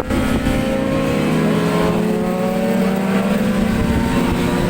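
Racing motorcycle engine running, its note falling slowly in pitch, with wind buffeting the microphone.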